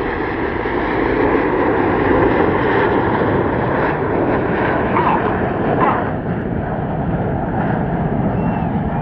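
Jet engines of Red Arrows BAE Hawk display aircraft flying a display pass: a steady, loud rushing noise that swells slightly in the first few seconds.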